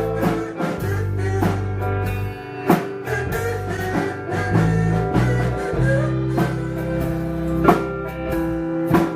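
Live rock band playing an instrumental passage: guitar and bass holding notes over a drum kit beat, with no vocals.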